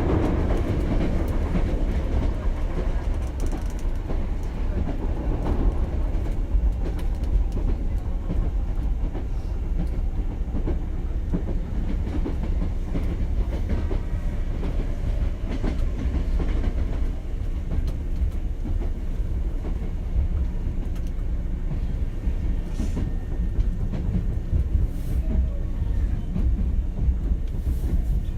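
Hankyu 7000 series electric commuter train running at steady speed, heard from inside a passenger car: a continuous low rumble of wheels on rail, with the clickety-clack of rail joints.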